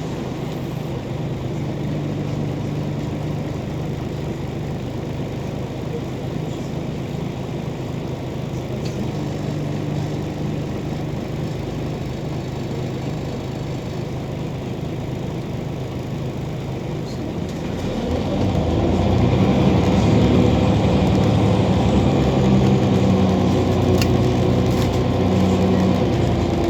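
Diesel engine of a Scania OmniCity city bus running steadily at low revs, then louder and rising in pitch about two-thirds of the way through as the bus accelerates.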